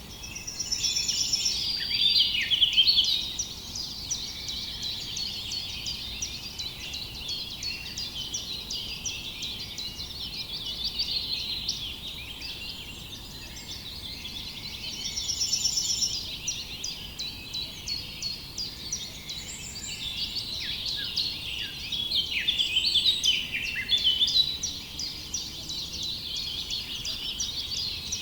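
Many small songbirds chirping and singing at once in a dense, continuous chorus. A buzzy trill comes back three times, about fourteen seconds apart, and the chorus swells louder now and then.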